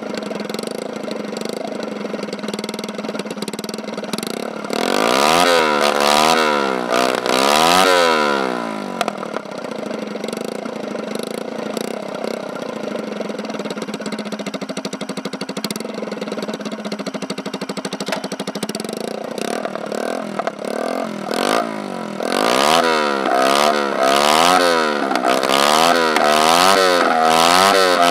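Peugeot Kisbee 4T 50cc four-stroke scooter engine running with no exhaust silencer. It idles, is revved up and back down twice about five to eight seconds in, settles again, then gets a run of quick throttle blips from about twenty seconds on.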